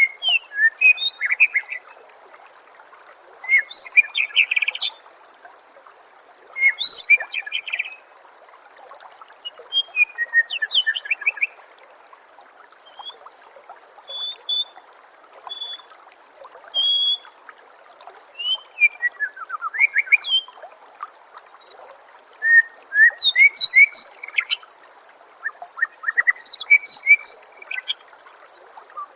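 White-rumped shama (murai batu) singing in repeated bursts of quick, varied phrases, each a second or two long with short pauses between, over a steady bed of trickling water.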